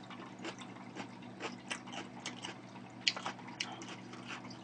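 Faint, irregular wet clicks and smacks of a person chewing food close to the microphone, over a steady low electrical hum.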